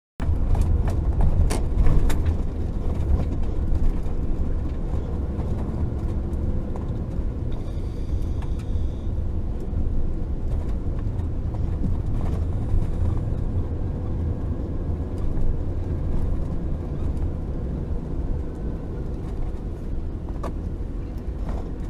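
Vehicle driving, heard from inside: a steady low road and engine rumble with a few scattered clicks and knocks.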